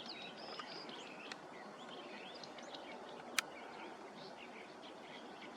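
Several small birds chirping and twittering, with short, wavering calls overlapping over a steady background hiss. A single sharp click about three and a half seconds in.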